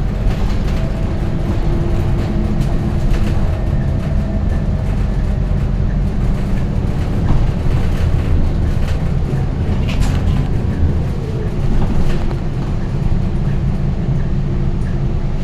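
Scania K230UB single-deck city bus's diesel engine running steadily under way, a continuous low rumble with a few light rattles.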